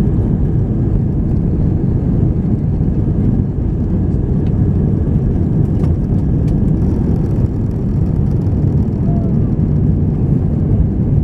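Airbus A319 airliner cabin noise in flight: a steady, deep noise from the engines and the air rushing past the fuselage, heard from inside the cabin.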